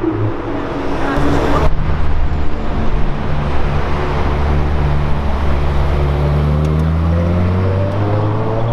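Supercar engine running at low revs, a steady deep note, with a brief rush of noise about a second in and the pitch starting to climb near the end.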